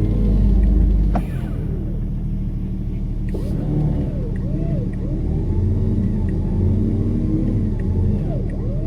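Off-road vehicle engine revving up and down again and again under load, with a heavy low rumble for about the first second.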